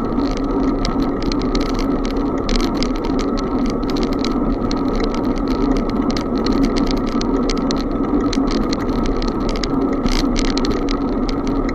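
Bicycle in motion: a steady rushing noise of wind and tyres on the road, with frequent small rattling clicks.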